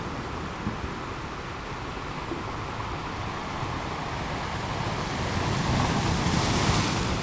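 Ocean waves breaking and washing ashore, a steady surf hiss that swells louder toward the end as a wave breaks.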